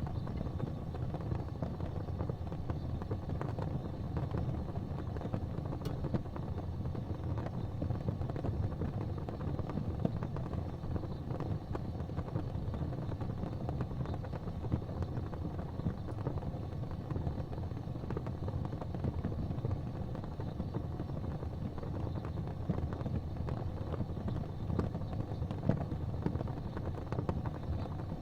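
Gas fireplace flames burning with a steady low rumble, with a few faint ticks.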